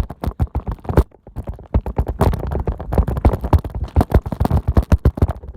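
Rapid, irregular knocking and rattling of an old bicycle jolting over a rocky path, picked up by a camera mounted on its handlebars, with a brief lull about a second in.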